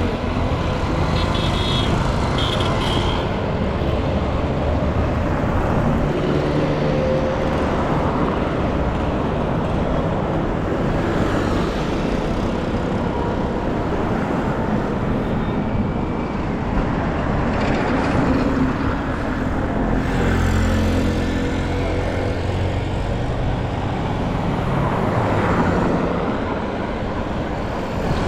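Busy street traffic: cars and trucks running and passing close by, a steady mix of engine hum and tyre noise.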